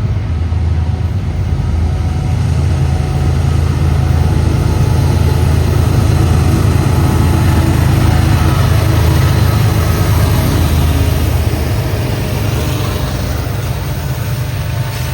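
Loaded coal freight train passing close by: the diesel locomotives' engines give a loud, steady low rumble.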